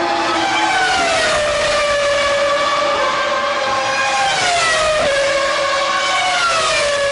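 Formula One V10 engines running at high revs, their high whine dropping in pitch about four and a half seconds in and again near the end.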